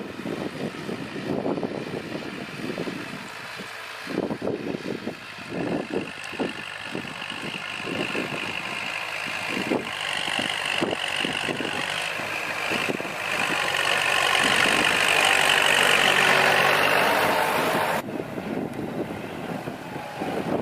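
Kubota L4708SP tractor's diesel engine running under load while its rotary tiller churns soil, with irregular low thumps through the first half. The sound grows louder and stronger past the middle, then drops off suddenly near the end.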